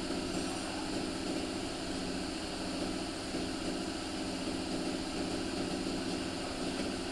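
Steady, unbroken machine drone with a low hum and a faint hiss above it, holding an even level throughout.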